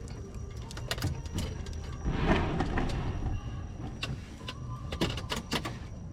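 Wood bonfire burning, with scattered sharp crackles and pops over a steady low rumble. A louder rushing swell comes about two seconds in and lasts about a second, and a quick cluster of pops follows near the end.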